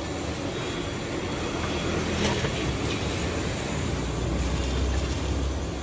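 Street noise with the low rumble of a motor vehicle that builds for a few seconds and eases off near the end.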